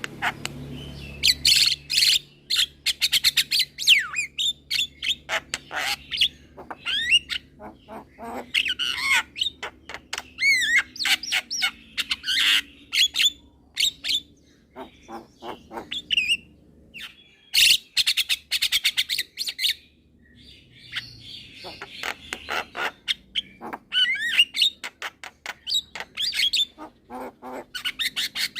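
Young Javan myna singing a long, busy song of rapid chirps, clicks, gliding whistles and harsh squawky notes, broken by a couple of short pauses.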